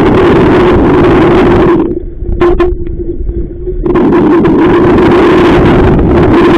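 Strong wind buffeting the microphone with a loud, steady rumble, over a steady hum from the boat. About two seconds in, the gust eases for a couple of seconds, leaving the hum and a couple of sharp knocks, then the wind rumble returns.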